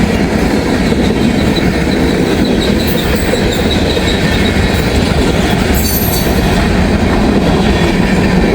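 CSX freight train cars rolling past close by, a loud steady rumble of steel wheels on rail. A faint high wheel squeal comes in for a few seconds in the first half.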